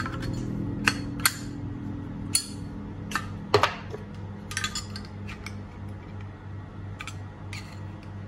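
Sharp metallic clicks and taps, about ten at irregular intervals, from a Zippo lighter's case and lid being worked while the lid is adjusted to close more snugly. A steady low hum runs underneath.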